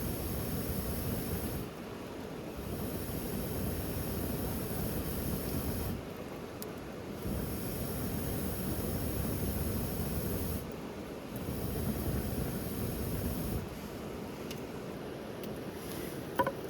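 Steady rain hiss with a low rumble, changing abruptly every few seconds. A single sharp click comes near the end.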